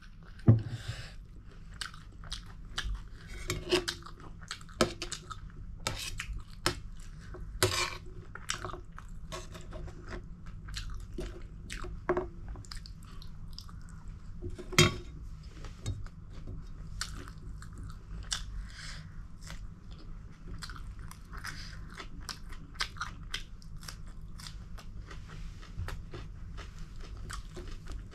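Close-miked chewing and crunching of mouthfuls of food, a steady run of small wet and crisp clicks, with a few sharper clinks of a steel spoon against a steel plate.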